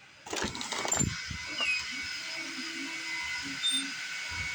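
Several 3D printers running, their cooling fans on turbo mode giving a steady whirring hiss with a few fixed whine tones. The noise comes in suddenly just after the start, with a few low thumps near the start and near the end.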